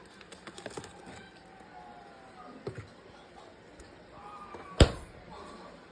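A single sharp knock about five seconds in, over faint handling clicks and taps.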